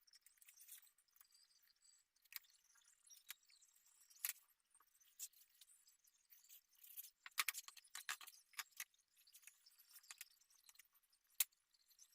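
Faint, scattered small clicks and light rustling of hand work, with a few sharper ticks and one distinct click about eleven seconds in.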